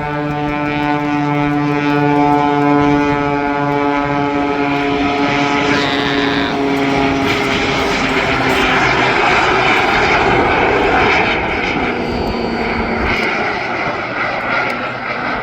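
Aerobatic display plane's engine passing overhead, a steady drone whose pitch slowly falls over the first several seconds, then giving way to a broad rushing engine noise that swells and fades.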